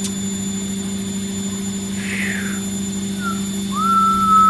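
Vestel CM8710 washing machine running with a steady motor hum. Near the end a high, whistle-like tone starts with a short rise and holds for about a second, the loudest sound.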